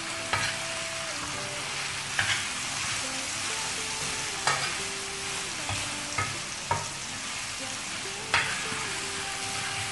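Boneless chicken pieces and chopped onion sizzling in oil on a flat tawa, frying dry now that the chicken's own water has cooked off. A metal spatula stirs through them, knocking sharply against the pan about seven times.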